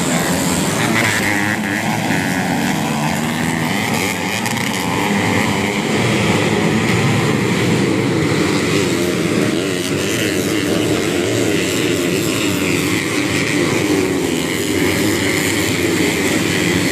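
Several modified underbone motorcycles racing on a dirt motocross track, their engines revving hard, wavering up and down in pitch without a break.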